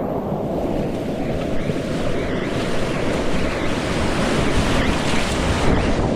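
Whitewater rushing steadily around a kayak on a big-volume river rapid, with wind buffeting the microphone.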